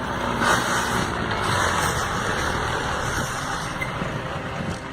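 Heavy truck engine running steadily, with outdoor noise.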